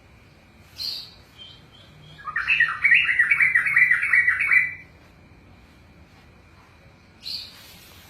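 Sooty-headed bulbul (trucukan) singing a fast burst of about ten quickly repeated warbling notes, some two seconds long, in the middle. A short sharp sound comes about a second in and another near the end.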